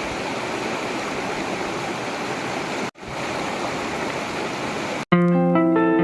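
Forest river water flowing in a steady rush, broken by a brief dropout about three seconds in. It cuts off near the end, where plucked guitar music starts.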